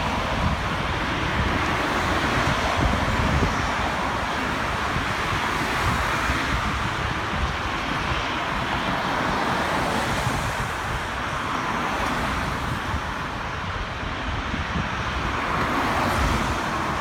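Jet engine noise from a Boeing 777-200LR's GE90 turbofans during its landing, a steady broad rush, with wind buffeting the microphone.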